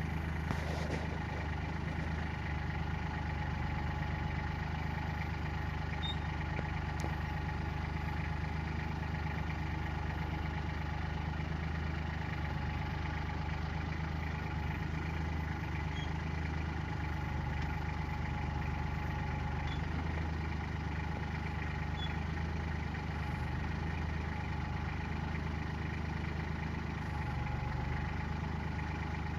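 Tractor engine running steadily while its backhoe is being operated.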